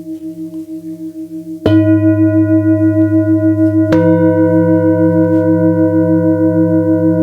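Singing bowls ringing with a slow, regular wavering pulse; a bowl is struck about a second and a half in and again about four seconds in, each strike adding fresh ringing tones that sustain.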